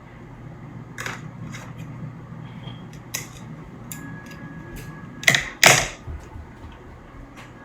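Scissors handled and snipping off excess yarn ends at the knots: scattered light clicks, with two louder snips in quick succession a little past five seconds in.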